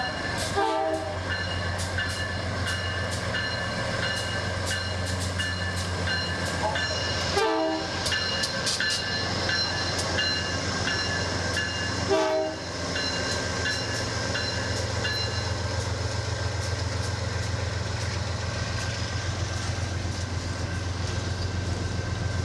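An Amtrak Auto Train rolling slowly past: a GE B32-8WH diesel locomotive, then a long string of auto-rack cars. The wheels click over rail joints over a steady rumble, with steady high-pitched squealing tones that fade out in the second half.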